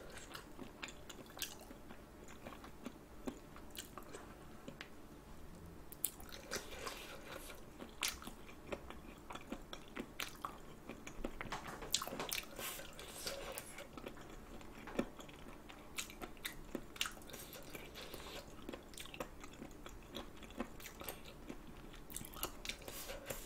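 Close-miked chewing and biting on spicy braised chicken feet (buldakbal): a run of small irregular crunches as the cartilage and small bones are chewed through, busier at times.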